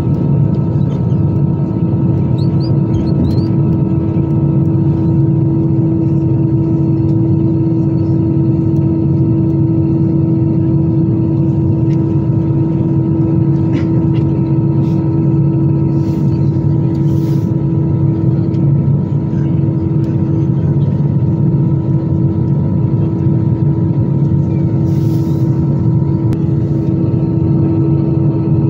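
Steady drone of an Airbus A320-214's CFM56 turbofan engines heard inside the passenger cabin, an even rush of noise with several steady whining tones held at one pitch.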